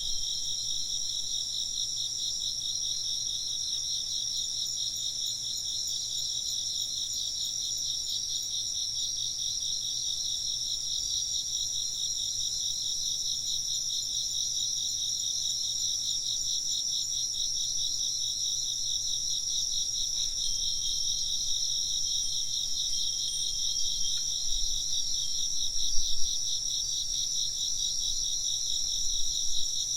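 A dense chorus of crickets chirping in fast, even pulses, steady throughout.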